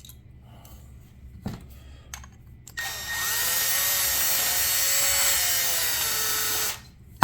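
Electric drill starting about three seconds in and running for about four seconds, its motor whine rising briefly and then holding steady, as a bit grinds the burr off a freshly drilled hole in a metal suspension A-arm; it stops abruptly. A few faint handling clicks come before it.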